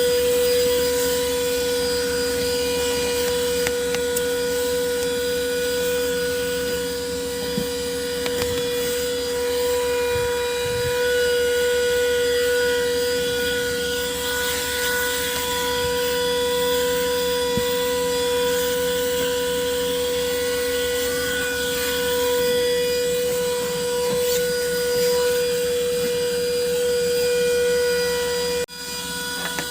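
Handheld car vacuum cleaner running steadily, its small motor giving a constant high whine over the hiss of air being drawn in as it sucks up dust. The sound dips briefly near the end.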